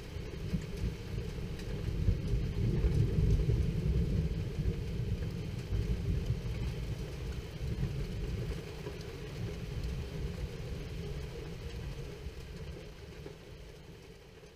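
Long roll of thunder: a deep rumble that builds over the first few seconds, is loudest around three seconds in, then fades slowly away, over a faint hiss of rain.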